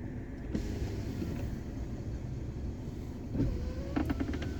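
Car cabin road noise while driving at highway speed: a steady low rumble of engine and tyres, with a faint rising whine near the end.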